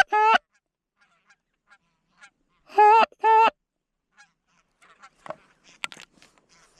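Canada goose call blown in two pairs of loud honks, the second pair about three seconds after the first, calling to a circling flock of geese. Faint scattered ticks and distant calls follow.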